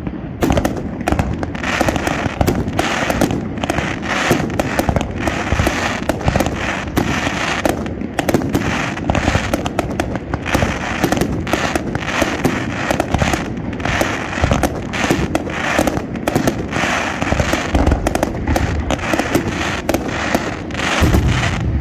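Aerial fireworks going off in a dense, rapid barrage: many sharp bangs close together with crackle between them.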